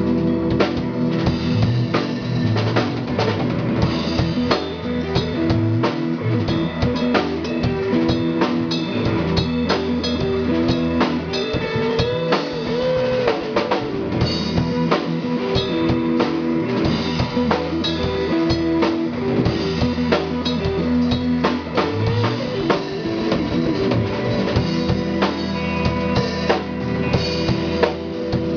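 Band music played loud during a sound check: a drum kit keeping a steady beat with kick drum and rimshots, under guitar and bass.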